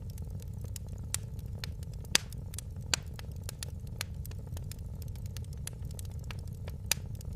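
Fireplace fire crackling: irregular sharp snaps and pops over a steady low rumble of the flames, with a few louder pops scattered through.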